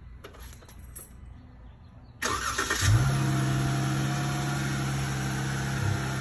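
Dodge Charger GT's 3.6-litre V6 starting, not from cold: a short crank about two seconds in, catching with a brief rev flare, then settling into a steady idle.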